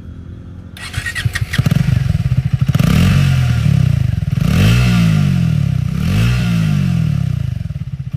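Triumph Speed T4's single-cylinder engine running through its exhaust, revved up about a second in, then given two throttle blips that rise and fall in pitch.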